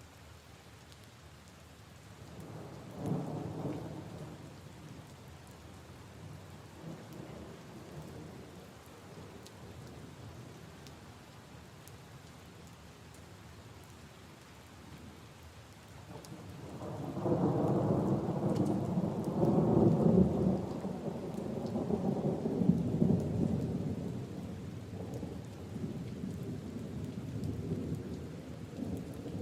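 Steady rain with two rolls of thunder: a short rumble about three seconds in, then a longer, louder one starting past the halfway point that fades slowly.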